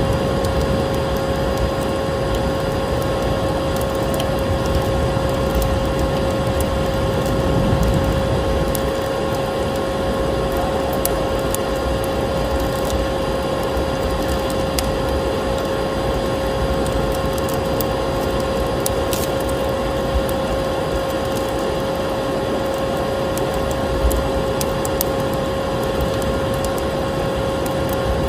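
A vacuum cleaner running with a steady drone and a constant whine, mixed with the scattered crackles and pops of a wood fire burning in a fireplace.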